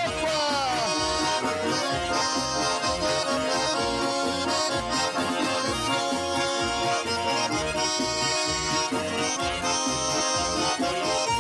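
Russian garmon (button accordion) playing an instrumental interlude of a folk song, with chords over a steady rhythmic bass. The last sung note slides down and fades in the first second.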